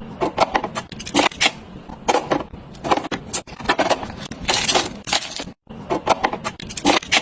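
Food containers and packages being handled and set into a fridge: a quick, uneven series of clicks, taps and scrapes, broken by a couple of brief cuts to silence.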